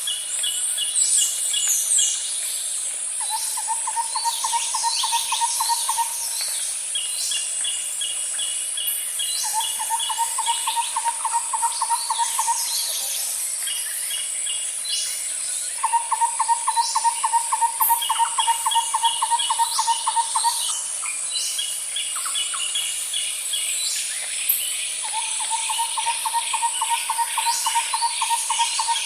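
Nature ambience of birds and insects: a steady high insect drone, short repeated chirps and quick falling whistles from birds, and a rapid low trill of about three seconds that comes back every few seconds.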